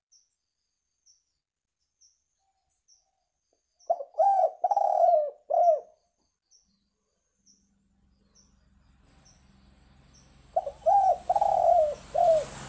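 Spotted dove (tekukur) cooing: two phrases of about four low notes each, one about four seconds in and another near the end, with faint high ticks in between. A hiss with a low hum rises behind the second phrase.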